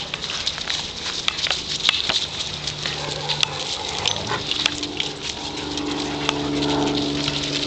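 Dogs growling steadily while playing tug of war, a low drone that grows stronger in the second half, with scattered sharp clicks and taps around them.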